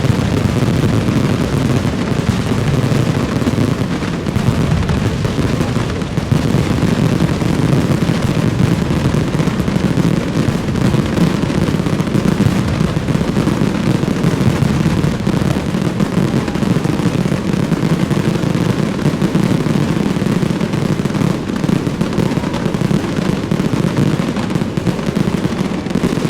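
Fireworks display: a dense, unbroken barrage of bursts and crackles, with no pause throughout.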